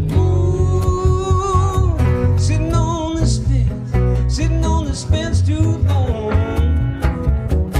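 Live band playing an instrumental break: a lead guitar line with bent, wavering notes over bass and regular drum hits.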